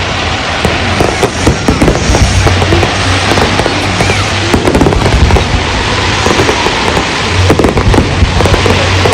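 A fireworks barrage: dense, continuous crackling and popping of many shells and firecrackers, with heavier bangs mixed in and no pause.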